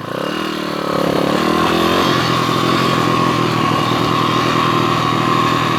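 PitPro 140cc four-stroke single-cylinder pit bike engine running under way. The revs dip, pick up again about two seconds in, then hold steady; the bike is heading downhill on engine braking.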